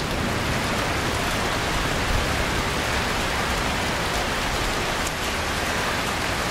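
Rain falling steadily in a thunderstorm, an even hiss with no claps of thunder.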